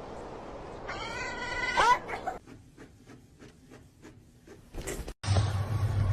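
A cat meows once, a drawn-out call lasting about a second that bends in pitch and rises at the end, followed by faint quick ticks. A low steady hum comes in near the end.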